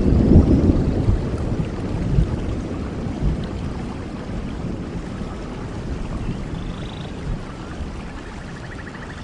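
Steady rain falling, with a low thunder rumble at the start that dies away gradually over several seconds.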